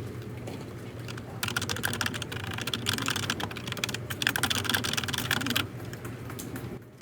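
Rapid typing on a computer keyboard, starting about a second and a half in, with a brief pause midway, and stopping shortly before the end.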